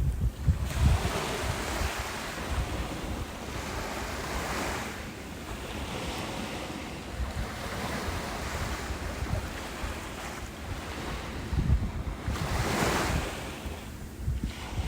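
Ocean surf breaking and washing up a beach, a continuous rush that swells and ebbs every few seconds. Wind buffets the microphone in low rumbling gusts about a second in and again near the end.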